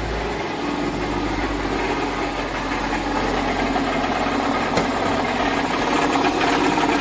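Mercedes-Benz E350 engine idling with a loud, steady rattling racket, as if something is falling apart; the mechanic takes it for a badly failing alternator.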